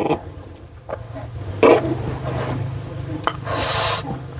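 Close-miked eating sounds: chewing, with a short wet smack about a second and a half in and a half-second hissy slurp near the end.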